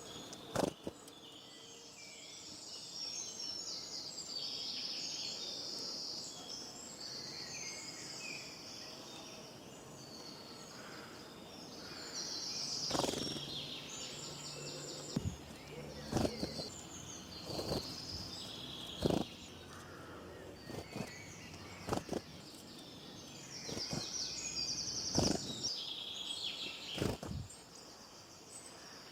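Several birds singing and chirping, with short high trills and warbles overlapping throughout. About eight sharp clicks or knocks break in at irregular moments, most of them in the second half.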